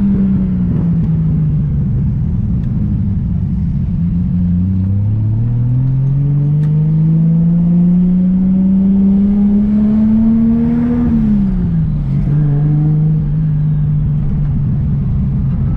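Car engine on a highway pull. Its note falls for the first few seconds, then climbs steadily for about six seconds, drops sharply, and then holds steady.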